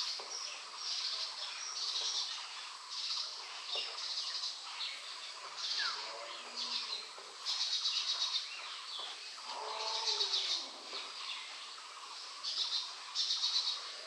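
Birds chirping and calling in repeated short high-pitched phrases, some of them fast trills. About ten seconds in, a lower call falls in pitch for about a second.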